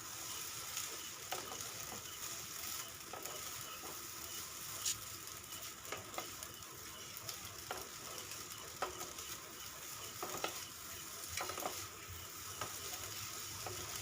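Boiled pasta and egg-and-onion masala sizzling in a hot kadai while being stirred, with irregular clicks and scrapes of the spoon against the pan over a steady frying hiss.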